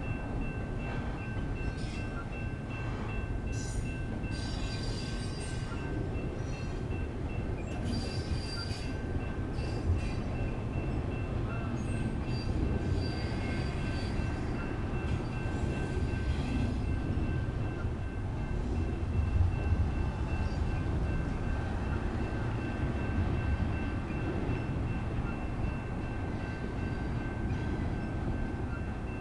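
Intermodal freight train cars rolling past a grade crossing, with a steady low rumble of wheels on rail. Steady high tones run throughout from the crossing's electronic warning bells.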